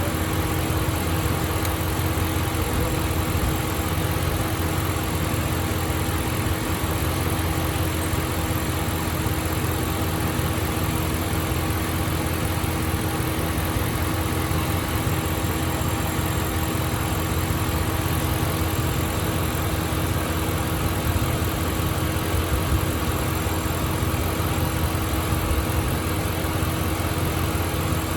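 Dodge Ram's Hemi V8 idling steadily after the repair of a failed MDS lifter, running evenly with a constant low hum and a steady tone.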